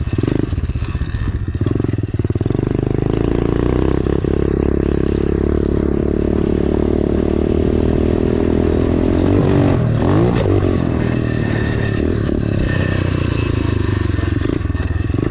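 Dirt bike engine running under throttle, heard from the rider's helmet camera, with the pitch swooping up and down about ten seconds in as the revs change.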